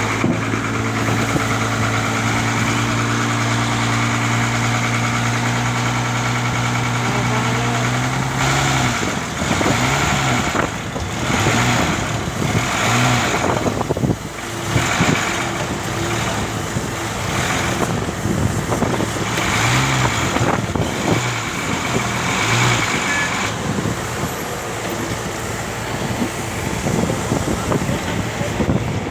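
Leyland truck's diesel engine running at a steady pitch. About a third of the way in it turns uneven, surging and falling back in repeated pulses every second or two, then settles into a rougher running noise near the end.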